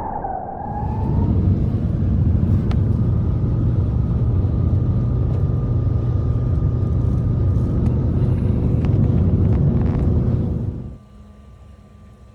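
Steady low rumble of a running engine, with a few faint clicks, cutting off abruptly about eleven seconds in.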